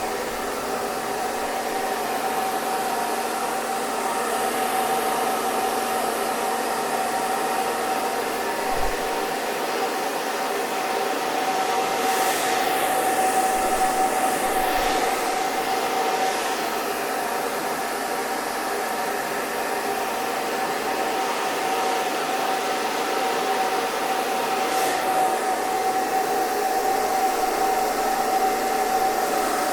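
Hair dryer running continuously: a steady rush of blown air with a constant motor whine. The upper hiss shifts briefly in a few sweeping swells, about halfway through and again near the end.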